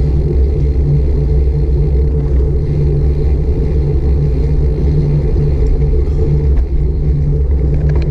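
Steady, loud low rumble of wind buffeting and road noise on a GoPro Hero 5 Black's microphone while cycling.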